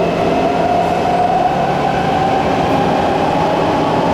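SMRT C151 metro train with Toshiba permanent-magnet traction motors, heard on board: a motor whine climbs slowly in pitch as the train gathers speed, over a steady rumble of wheels and tunnel running noise.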